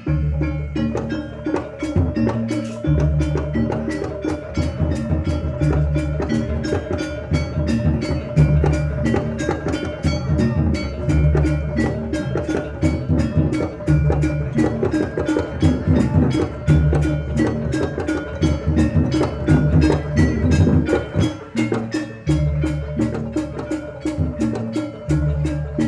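Javanese gamelan music accompanying a barongan dance: deep drum patterns under a fast, steady beat of sharp struck percussion, with a held ringing tone running through.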